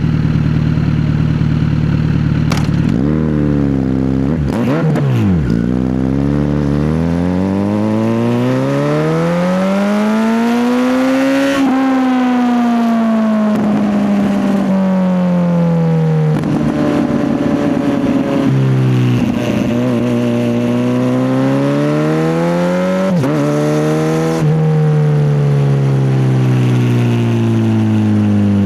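Kawasaki Z900 inline-four motorcycle engine under way, its revs rising and falling several times: a few quick blips, then a long climb that drops suddenly about twelve seconds in at a gear change, followed by more rises and falls.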